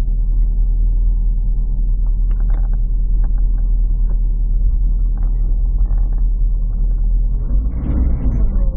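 Lotus Esprit's engine idling with a steady low rumble, heard from inside the car's cabin. Near the end the sound grows busier as the car begins to move off.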